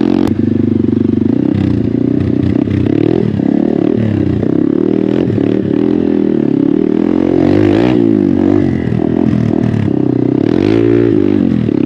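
Hero Xpulse 200's single-cylinder engine through an MW Performance aftermarket exhaust, ridden off-road with the revs rising and falling repeatedly as the throttle is worked.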